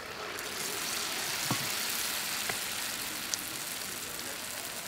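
Battered chicken drumstick sizzling in hot oil in a wok, the frying starting suddenly as it goes in and running steadily, with a few sharp pops.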